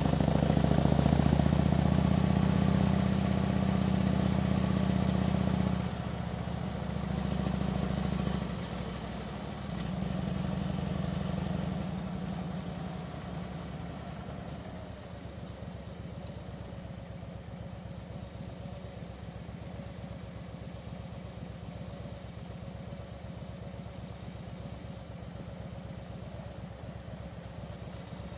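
Harley-Davidson touring motorcycle's V-twin engine running loud at first, its level dropping twice about six and ten seconds in, then settling after about twelve seconds into a quieter, even low-speed running.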